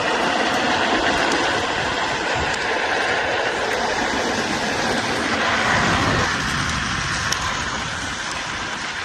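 A vehicle's steady rumble and rattle while moving, changing character about six seconds in.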